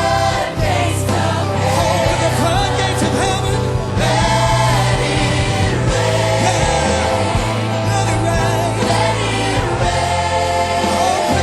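Gospel worship music: a choir and congregation singing over a band with a steady bass line.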